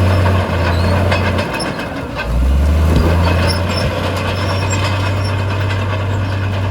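Heavy earthmoving machine's diesel engine running steadily, with scattered metallic clanks and knocks. About two seconds in the engine note dips, then comes back lower and louder for under a second before settling to its earlier pitch.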